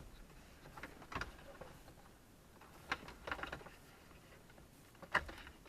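Scattered light plastic clicks and rattles, in a few short groups: wiring connectors being unclipped from the back of a car's HVAC control unit.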